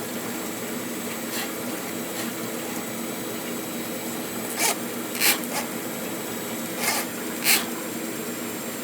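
Electric drain-cleaning machine running with a steady hum, its spinning steel wire rasping against the drain pipe in four short scrapes from about halfway through.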